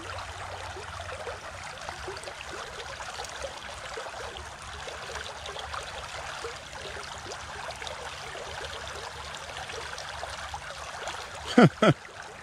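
Creek water running steadily in a continuous rushing trickle. Near the end, two short, much louder sweeping sounds come quickly one after the other.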